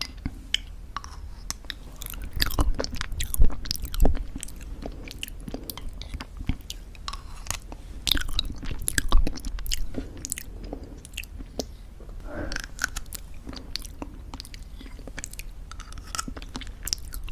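Close-miked chewing of homemade granola in thick yogurt: continuous crisp crunching and crackling. It grows louder about three seconds in and again around nine seconds in.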